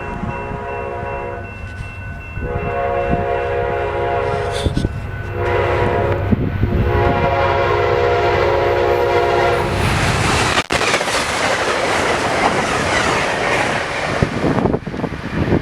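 Amtrak Wolverine passenger train approaching at speed, its locomotive horn sounding a multi-tone chord in several blasts with short breaks, the last held long. About ten seconds in the horn stops and the loud rush and wheel clatter of the train passing close by at high speed takes over.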